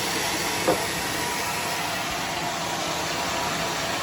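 Sawmill machinery running steadily, with one short sharp knock about a second in.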